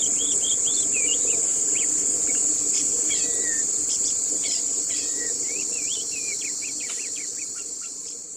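A steady, high-pitched insect chorus with birds chirping over it in quick, short, twisting calls, the whole fading down toward the end.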